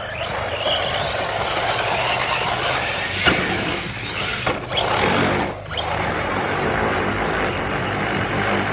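ARRMA Senton brushless RC short course truck at speed, its electric motor whining higher as it accelerates. The whine drops sharply twice as the throttle is let off, then holds a steady high pitch at full throttle, over a rushing noise of the running gear and tyres.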